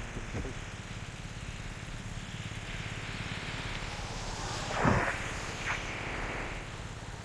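A vehicle engine idling steadily under road traffic, with a passing vehicle building up and going by close about five seconds in, the loudest moment.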